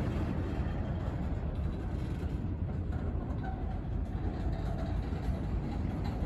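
Wheeling and Lake Erie freight train passing, a steady low rumble.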